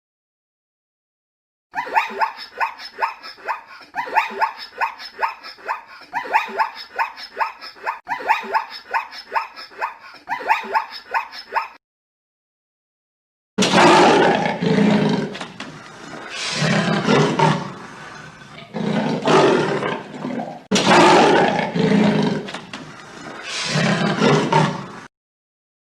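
First, an animal call repeated rapidly for about ten seconds, about three strokes a second. After a short gap, a big cat roars heavily five times, each roar lasting a second or two.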